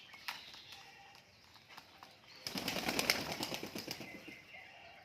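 Pigeon flapping its wings in a burst of less than two seconds, starting about halfway through, over faint bird chirps.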